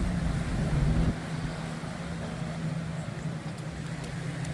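Street traffic: a vehicle engine running with a steady low hum, its deep rumble dropping away suddenly about a second in.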